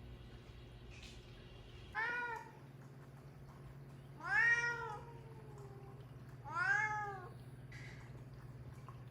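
A cat meowing three times, about two seconds apart, each call rising and falling in pitch; the middle meow is the longest and loudest. A steady low hum runs underneath.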